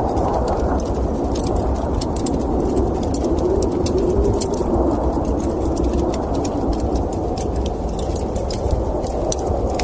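Crackling log fire with many sharp snaps and pops over the steady rush of a howling winter wind, whose low moaning tone swells and bends through the middle.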